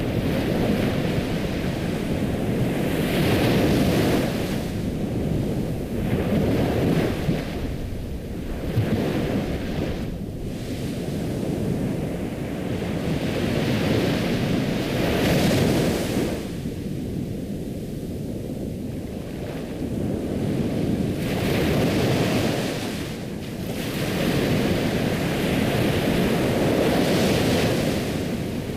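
Ocean waves breaking and washing on a shore, the surf swelling and ebbing every few seconds.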